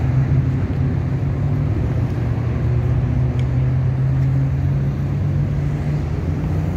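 Busy street ambience: a steady low hum of traffic and idling vehicles.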